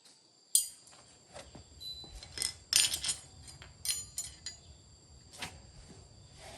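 Small metal parts and tools clinking and knocking as they are handled, a dozen or so sharp irregular clinks, loudest about half a second in and around three seconds in.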